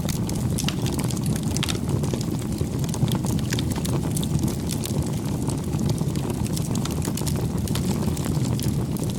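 Wood fire burning: a steady low rush of flames with frequent sharp crackles and pops from the burning wood.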